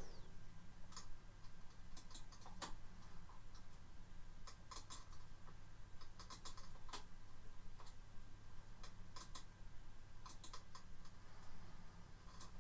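Faint, irregular clicks and ticks, some in clusters of two or three, over a steady low hum.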